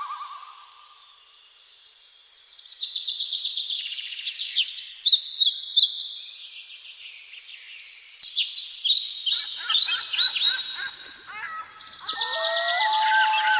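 Several birds calling at once, with dense, rapid high chirps and trills. It is quieter for the first two seconds, and lower held whistling notes come in near the end.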